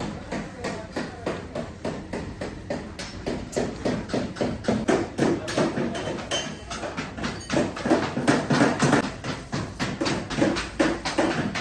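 Rapid, steady hammer blows on car body sheet metal, about four strikes a second, as a damaged panel is beaten back into shape.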